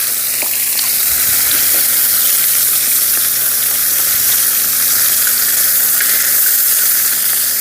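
Lamb sizzling on a cast-iron cauldron lid (sotttukkeong): a steady, even frying hiss.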